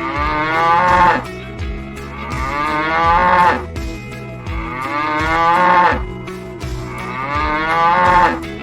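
Domestic cow mooing four times, each moo long and rising in pitch toward its end.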